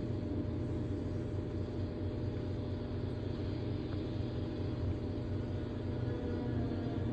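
Steady low rumbling drone with a few held tones, the eerie ambient bed of a horror soundtrack.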